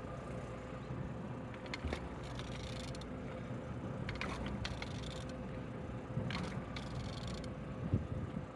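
A removed car engine being turned over by hand, giving scattered mechanical clicks, knocks and scrapes over a steady background hiss. It turns freely, a sign of an engine that is not seized.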